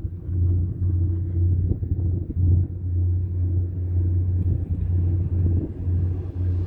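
Low, uneven rumble, swelling and dropping every second or so, on a ride aboard a four-seat chairlift.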